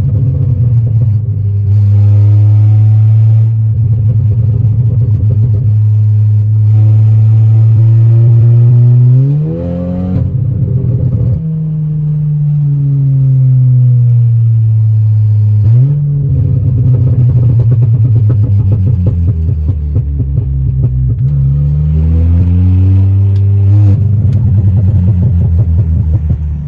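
Stage 3 tuned VW Golf R's turbocharged four-cylinder running loud under way. Its note holds steady for long stretches, climbs sharply about ten seconds in and breaks off, sags, then rises again as the car accelerates twice more.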